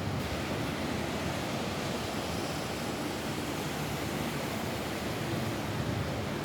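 Steady rain falling on a roof: an even, continuous hiss with a deep rumbling undertone and no single drops standing out.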